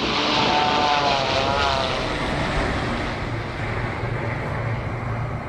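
Boeing 787 airliner flying past with its ram air turbine deployed, in two recordings played together: a steady rush of jet and airflow noise. About half a second in, a wavering whine rises and falls for over a second. The narrator hears engine sound in it, which he takes as a sign that the engines were still running.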